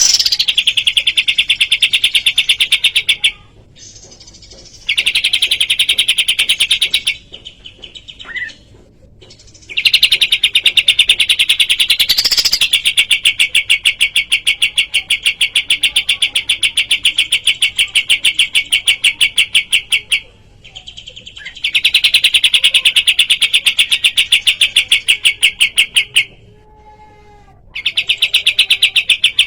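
Kapas tembak song: long, fast rattling runs of quickly repeated sharp notes, each run lasting several seconds. The runs break off briefly four times.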